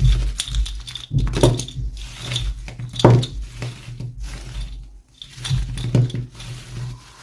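Hands handling plastic toy packaging and small doll pieces: irregular clicks, taps and rustles.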